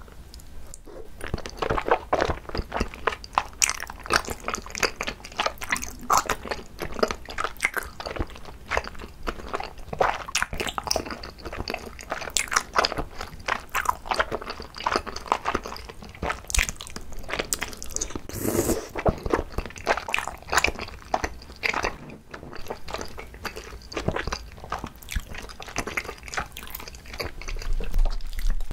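Close-miked eating of tteokbokki: biting into and chewing soft, chewy rice cakes in red sauce, a dense run of short mouth clicks and bites.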